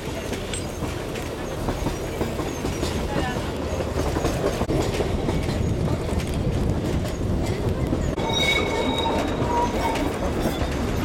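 Darjeeling Himalayan Railway narrow-gauge toy train running, heard from aboard the carriage: a steady rumble and rattle of the running gear, with a brief high tone about eight seconds in.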